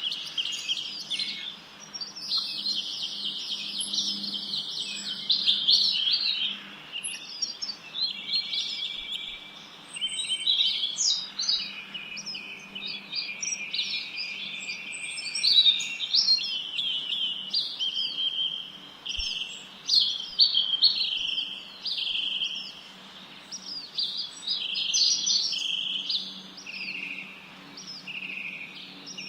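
A chorus of songbirds chirping and singing without a break, many short overlapping calls and trills rising and falling in loudness.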